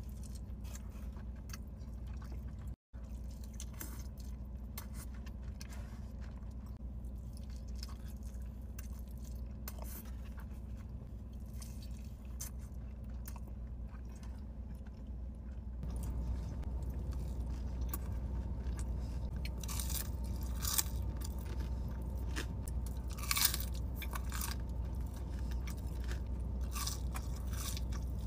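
Close-up eating sounds: a person biting into and chewing soft, cheesy fast food, with many small wet mouth clicks over a steady low hum. About sixteen seconds in the hum and the chewing get louder.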